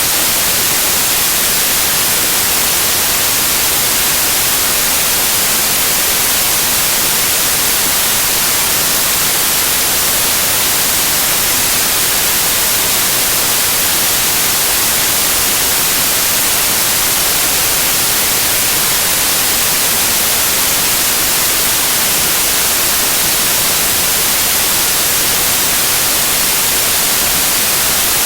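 Loud, steady white noise: an even hiss across the whole range, brightest in the highs, with no change throughout.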